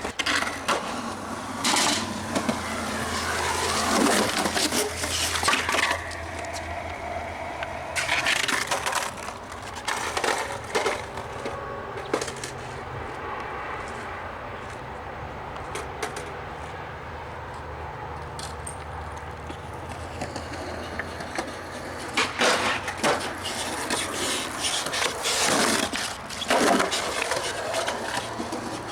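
Skateboard wheels rolling with scattered sharp clacks of a board popping and landing, several near the start and another run near the end.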